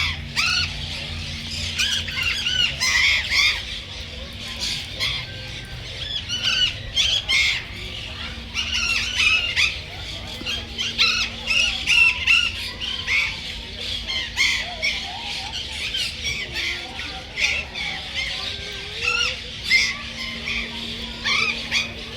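Dense chatter of many birds calling at once: short, high chirps and squawks overlapping without a break. A faint steady low hum runs underneath.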